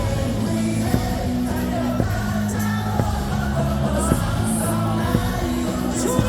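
Stadium cheer music over the PA with a steady beat of about one hit a second, with a crowd singing and shouting along.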